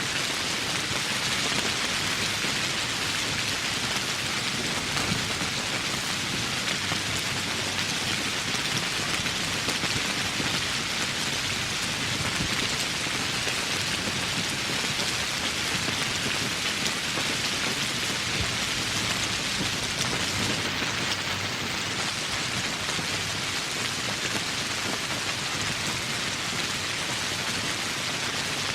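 Steady rain falling, an even hiss of countless drops that holds unchanged throughout.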